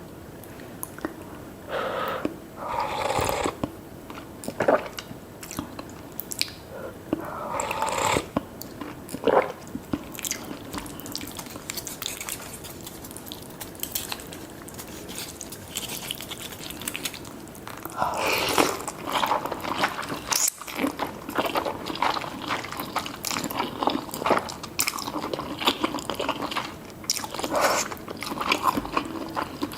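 Close-miked eating of seafood noodle soup with tofu: irregular wet chewing and biting clicks, with several louder noisy bursts about a second long.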